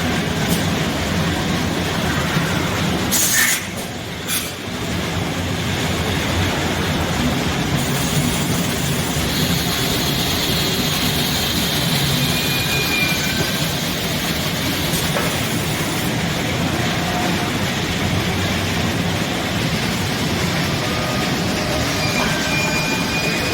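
HOMAG Optimat BOF 311 CNC woodworking machining center running: a steady mechanical noise with two sharp clicks about three to four seconds in and a few brief high squeals.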